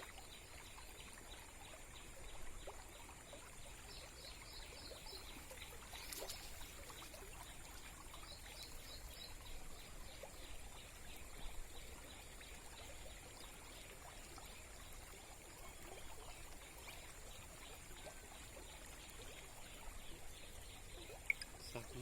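Rainwater faintly trickling and flowing.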